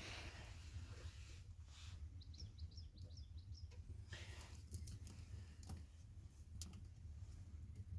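Faint bird chirps, a quick run of short high notes, over a low steady background hum, with a few sharp clicks in the second half.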